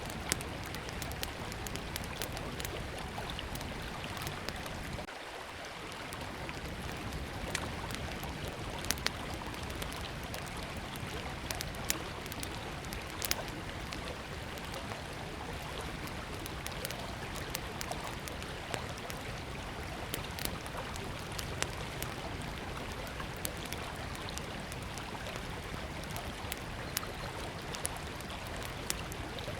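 River water running steadily, with a small wood fire crackling over it in short, irregular pops.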